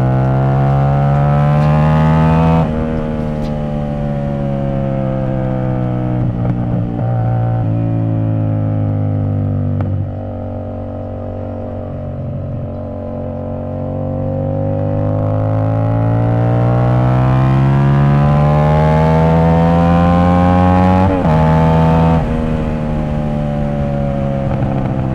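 CFMoto 450SS parallel-twin engine with an aftermarket exhaust, heard from the moving bike. The revs climb, then it shifts up about two and a half seconds in. It eases off and goes quieter around ten seconds, then pulls up through the revs for several seconds with two quick upshifts just past twenty seconds, the revs falling after them.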